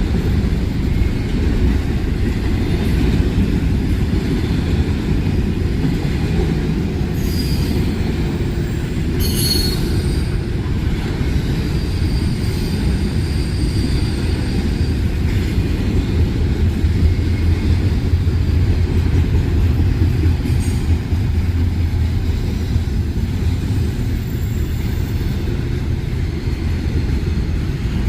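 Freight train rolling past with a steady low rumble of cars and wheels on the rails, with brief high wheel squeals about a third of the way in.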